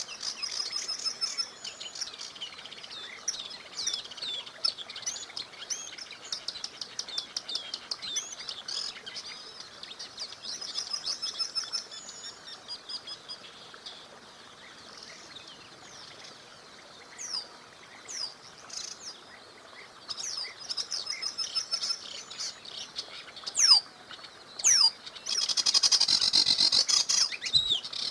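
Several songbirds singing: quick chirps, fast trills and short downward-sweeping whistles, densest and loudest near the end. Beneath them, a faint steady rush of a small river.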